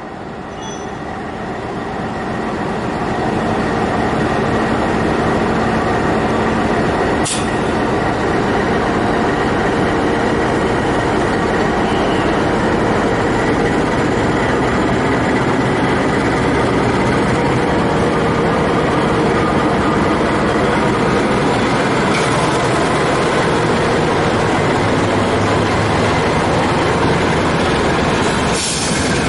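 A train running past at close range: the rumble of the cars on the rails builds over the first few seconds, then holds steady. There is a sharp click about seven seconds in.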